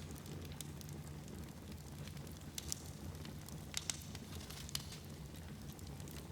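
Fire burning in a fireplace: a steady low rumble with scattered sharp crackles and pops, a few louder pops in the middle.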